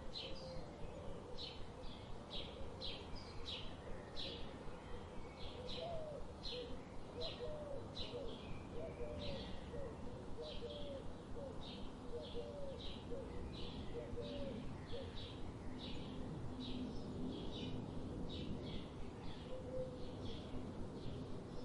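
Forest bird calls: a short high chirp repeats evenly about twice a second throughout. A run of lower, wavering call notes sounds over the first half and briefly again near the end, over a steady background hiss.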